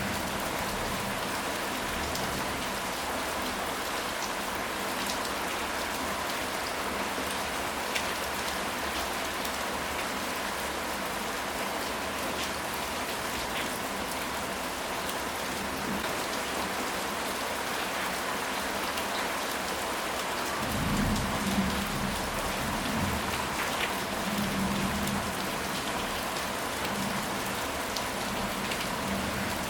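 Steady rain falling on a surface, with scattered individual drops ticking. About two-thirds of the way through, a low rumble of thunder rolls for a few seconds.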